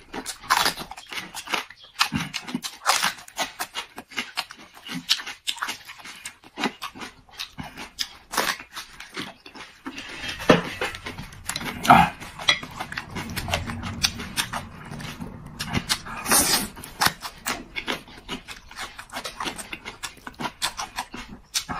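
A person biting and chewing fresh chili peppers dipped in eggplant sauce, with wet lip-smacking: a rapid, uneven run of short crunches and smacks.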